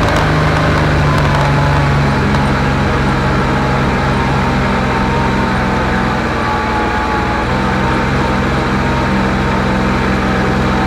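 Kubota RTV utility vehicle engine running steadily under load, its pitch shifting slightly a couple of times, as it tows a dragged tree limb up a muddy slope.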